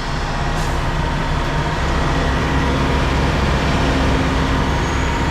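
Kenworth T680 semi truck's diesel engine running steadily at low speed, heard from the cab, as the rig settles into its parking spot.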